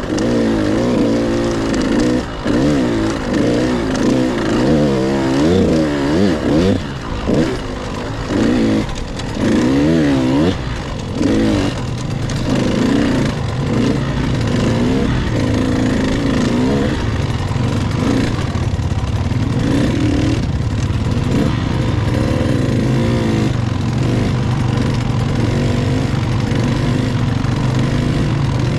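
Husqvarna TC 85 two-stroke dirt bike engine being ridden, its pitch rising and falling again and again as the throttle is worked. About halfway through it settles into a steadier run.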